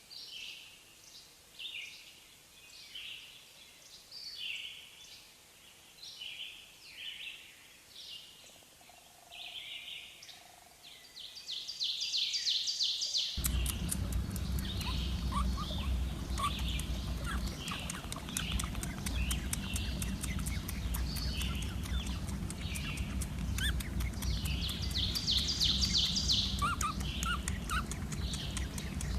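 Small birds chirping: short high calls repeat about every half second. About halfway through, the sound cuts to another recording with a steady low rumble under faster, denser chirping.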